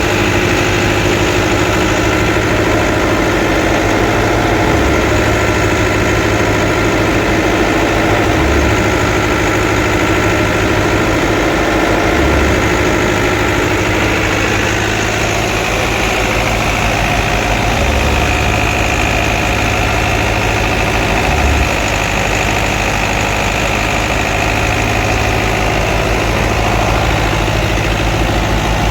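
Fiat 640 tractor's diesel engine running steadily, driving a wheat thresher through its power take-off, with the thresher's mechanical whir over the engine drone.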